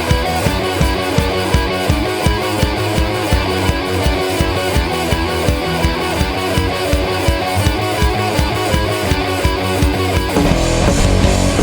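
Instrumental intro of a rock song, with guitar and drums keeping a steady beat. About ten seconds in the band comes in fuller and heavier.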